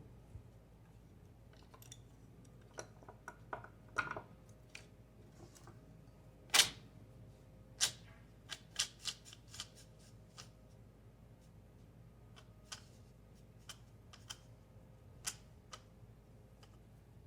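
Irregular light clicks and knocks, a dozen or so spread unevenly, the loudest about six and a half seconds in.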